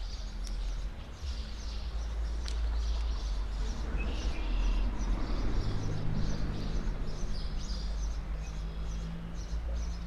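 Small birds chirping again and again over a steady low rumble. Two sharp clicks come in the first three seconds, and a low steady hum joins in the second half.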